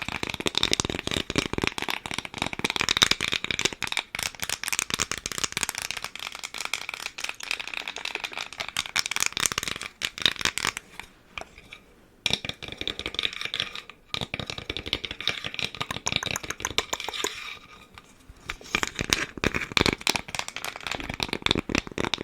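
Rapid, dense tapping and scratching on a small wooden plank: a run of quick dry clicks that stops briefly a few times about halfway through and again near the end.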